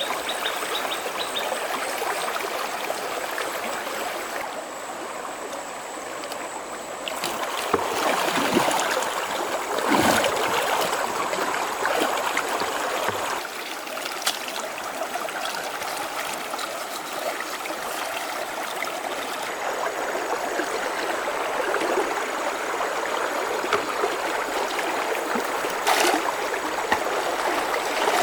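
Water flowing steadily in a stream, with a few louder sudden noises about eight and ten seconds in and again near the end.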